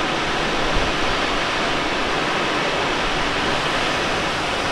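Steady rushing airflow noise in the cockpit of an unpowered Let L-13 Blaník glider in flight.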